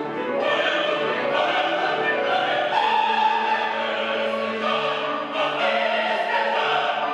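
A chorus of voices singing in classical opera style, with long held notes.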